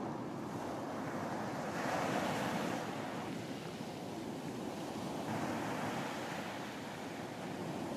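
Sea waves breaking and washing on a beach, two swells rising and falling in turn, with some wind.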